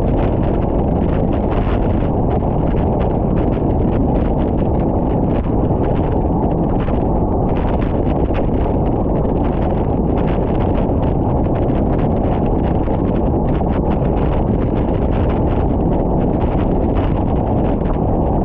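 Wind buffeting the microphone, a loud steady rumble, with many faint ticks throughout.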